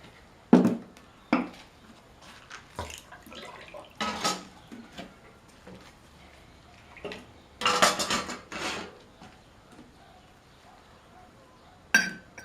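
Metal tools and engine parts being handled: irregular clinks and knocks, with a cluster of clattering near the middle and one ringing metallic clink near the end.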